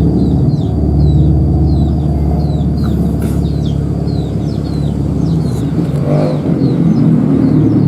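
A motor vehicle engine running steadily, with many short, high, falling chirps repeating several times a second over it.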